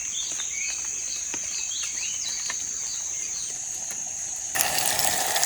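An insect's steady high-pitched drone, with birds calling in quick short chirps. About four and a half seconds in, a loud sizzling of frying suddenly starts.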